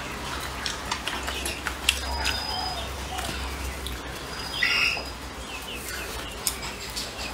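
Close-up mouth sounds of someone chewing food: scattered small wet clicks and smacks. A short high chirp sounds twice.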